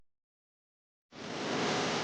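Dead silence, then a steady rushing noise with no clear pitch starts abruptly about a second in.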